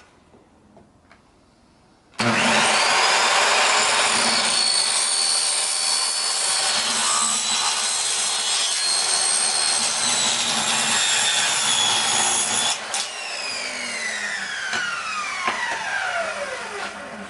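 Electric power saw cutting through a retractable-screen housing: the motor starts suddenly about two seconds in and runs with a high whine through the cut for about ten seconds, then is switched off and the blade spins down with a steadily falling whine.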